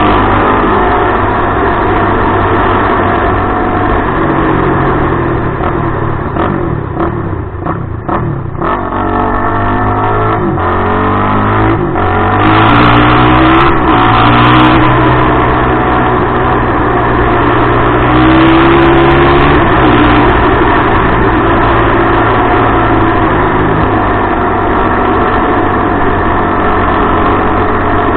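Suzuki LTR450 quad's single-cylinder four-stroke engine running through an aftermarket DMC exhaust, revving with its pitch rising and falling. The engine note drops about eight seconds in and climbs again a few seconds later.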